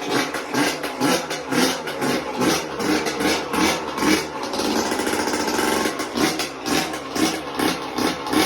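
Yamaha YZ125 two-stroke dirt bike engine running, freshly rebuilt with a new piston. It is revved in quick repeated blips about twice a second, and held steady for about a second and a half near the middle.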